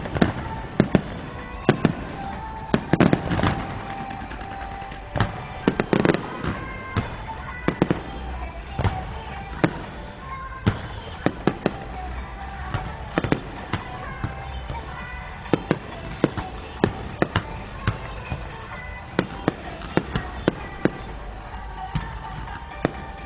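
Fireworks bursting in a long string of sharp bangs, some in quick clusters, over music with sustained tones.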